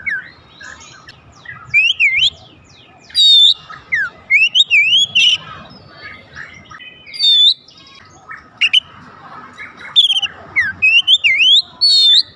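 Oriental magpie-robin singing a run of varied whistled phrases that slide up and down, broken by short harsh, buzzy notes about three, seven and twelve seconds in.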